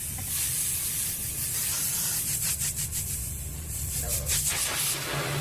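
High-pressure water jets of a car wash pre-wash spraying onto the car, heard from inside it: a steady hiss, with spurts of spray beating on the panels from about two seconds in, over a low rumble.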